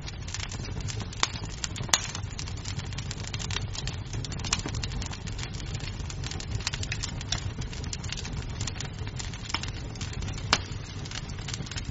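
Wood fire crackling in a fireplace, a steady low rumble of flames with irregular snaps and pops of burning wood, two of them sharper, about 2 and 10.5 seconds in.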